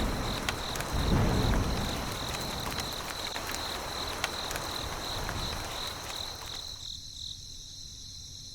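Insects chirping in a high, evenly pulsing trill over a steady hiss, with low rumbles in the first second or so. The lower sounds drop away after about seven seconds.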